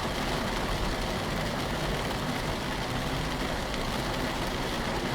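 Steady noise inside a car driving in heavy rain: engine and wet-road tyre noise with rain hissing on the body.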